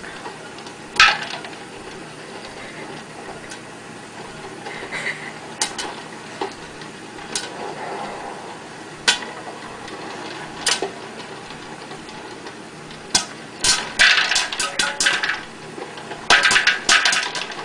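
Popcorn kernels popping inside an electric popcorn popper with a clear plastic dome: scattered single pops at first, then a quick, dense run of pops over the last few seconds as the batch gets going.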